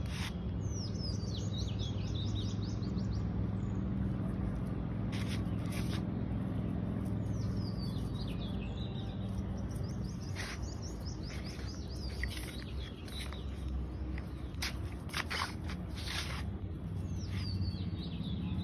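A small bird twittering in quick runs of falling chirps, three times, over a steady low background rumble. Scattered sharp taps come mostly in the middle and later part.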